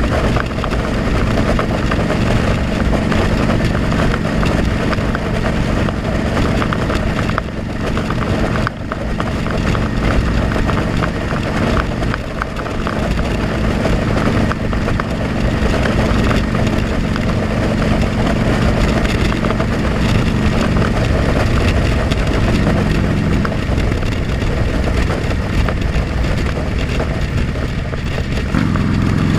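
Motorcycle engine running while riding, picked up by a helmet-mounted camera with heavy wind rush over the microphone. The engine note holds steady, then shifts a few times near the end.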